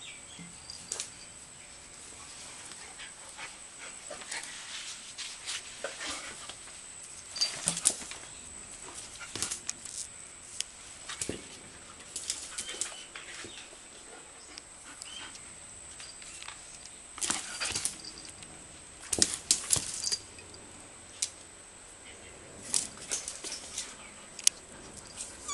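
Puppies playing and scuffling with a dog: scrabbling and scraping in bursts, with occasional small whimpers.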